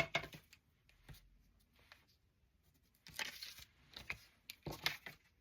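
Paper and cardstock being handled and shifted into place on a craft tag: a series of short rustling scrapes, the loudest right at the start and again around three and five seconds in.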